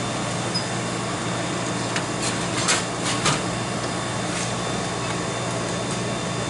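Steady fan-like hum with a few short sharp clicks about two to three and a half seconds in.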